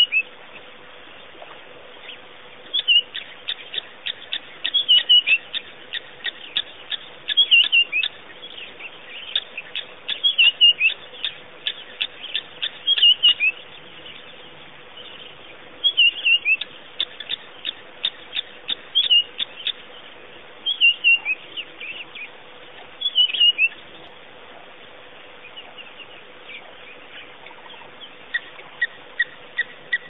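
Birds chirping in bursts of quick, falling high notes every two to three seconds, with a run of evenly repeated notes near the end, over a faint steady hum.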